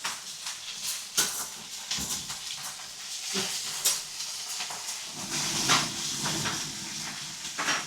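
Meat sizzling and hissing on a hot marble slab over a fireplace, with several sharp clinks and scrapes of a utensil against the food and stone.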